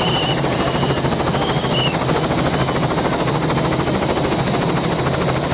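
Helicopter running, its rotor giving a steady, rapid chopping over the engine noise.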